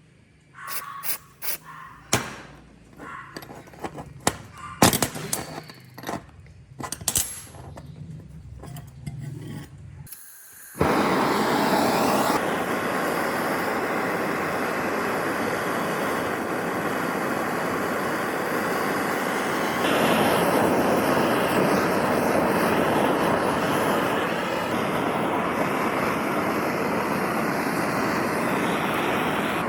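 Hand tools clinking and knocking against metal parts in a series of sharp, irregular taps. About eleven seconds in, a loud, steady, noisy machine sound starts abruptly and keeps going without a break.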